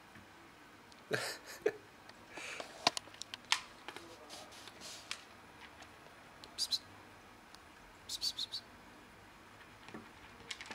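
Short high chirps, in a few quick groups, with scattered sharp clicks and taps in between.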